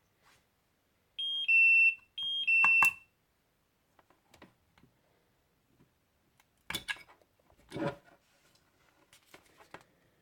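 LiPo battery charger sounding an alarm: two loud two-tone beeps in quick succession, each a short higher tone stepping down to a longer lower one. A few knocks and clicks of handling follow later.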